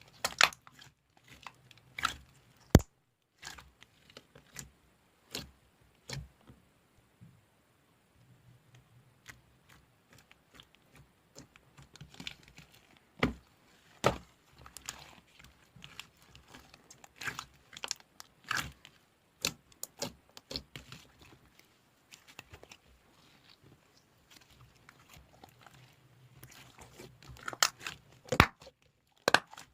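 Slime being squeezed, poked and stretched by hand, making irregular sticky pops, clicks and crackles, with a few louder snaps.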